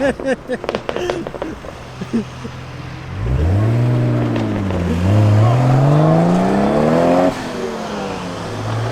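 A car engine accelerating: about three seconds in its note climbs, dips briefly, then rises steadily for a couple of seconds before dropping suddenly, settling back to a lower running note.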